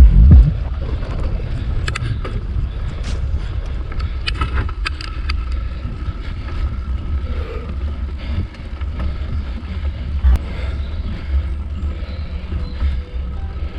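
Steady low wind rumble on the microphone with scattered clicks and rattles, typical of a mountain bike being ridden over rough forest trail.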